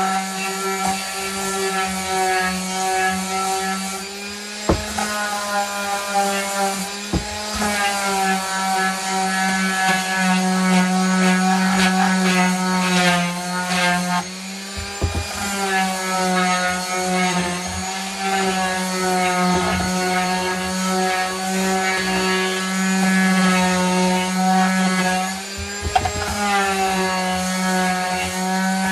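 Electric sheet sander with 150-grit paper running steadily while sanding the inside of a wooden shelf. Its hum dips in pitch now and then as it is pressed into the wood, with a few short knocks.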